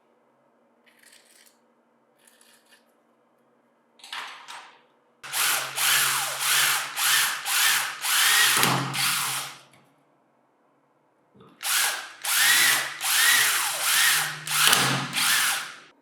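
A power tool running in two stretches of about four seconds each, its sound pulsing about twice a second over a low hum, with a short burst and faint scraping before the first stretch.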